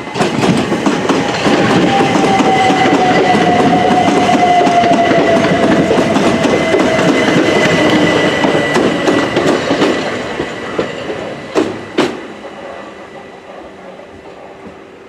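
Class 377 Electrostar electric multiple unit running into the platform, its wheels clattering over rail joints and its traction motors whining in a falling pitch as it slows. Two sharp clacks come near the end as the sound dies away.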